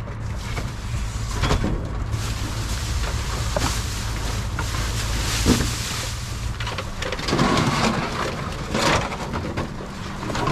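A steady low vehicle rumble with wind buffeting the microphone, and a few scattered knocks.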